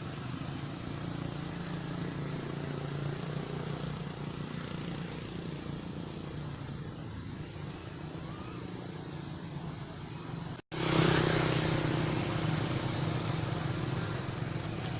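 A motor engine running steadily with a low hum. The sound breaks off for an instant about ten and a half seconds in and comes back louder.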